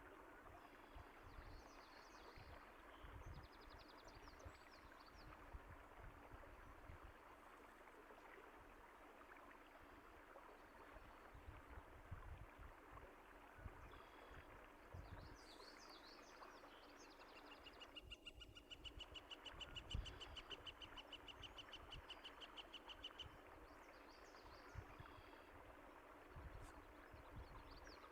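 Faint steady running water with scattered bird chirps over it; about two-thirds of the way in, one bird gives a long, rapid, high trill lasting several seconds.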